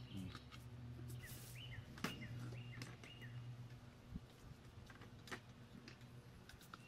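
Birds chirping in short repeated calls over a low steady hum, with a few light clicks and knocks from hands handling the mower's starter rope and recoil starter, the sharpest about two seconds in.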